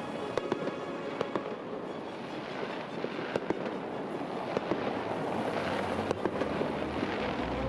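Massed New Year's fireworks across a city: a continuous rumble of distant bursts and crackle, with many sharp single bangs scattered irregularly through it.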